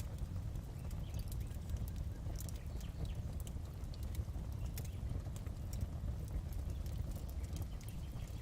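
Fire crackling in a fireplace: scattered sharp pops and snaps at irregular moments over a steady low rumble.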